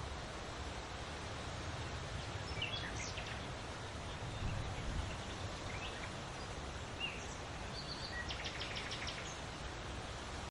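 Field recording of wind in trees, a steady rushing noise with a low rumble, with songbirds giving scattered short chirps and, near the end, a quick trill of about eight repeated notes.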